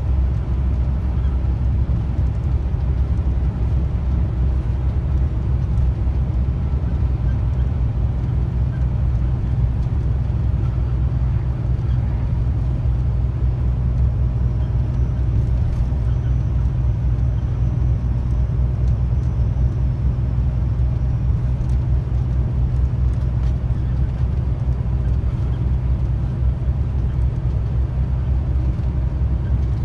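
Inside a moving truck cab: the steady low drone of the engine with road and tyre noise while driving at a constant pace.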